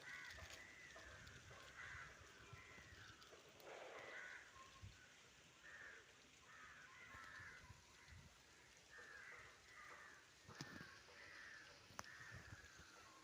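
Crows cawing over and over, faint, with a couple of short sharp knocks near the end.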